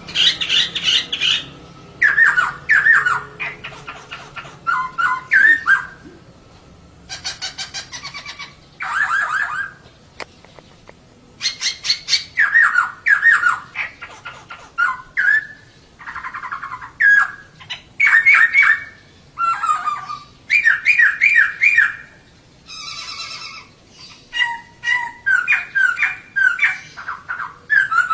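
Female poksay (laughingthrush) singing: repeated bursts of quick chirping, whistled notes, broken by short pauses.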